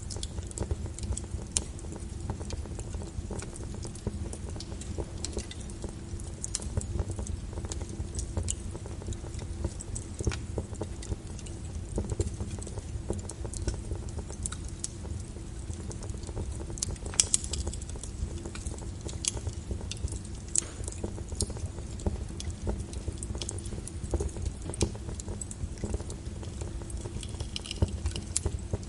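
Wood fire crackling, with irregular sharp pops and snaps over a steady low rumble. One pop stands out, louder than the rest, past the middle.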